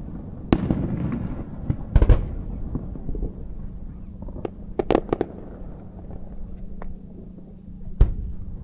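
Aerial fireworks bursting in a series of sharp bangs: one about half a second in, a double bang at two seconds, a quick cluster around five seconds and another near the end, each followed by a rumbling echo.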